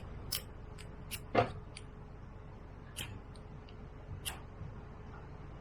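Scattered sharp clicks and light knocks of objects being handled, about ten over a few seconds, with one louder knock about a second and a half in.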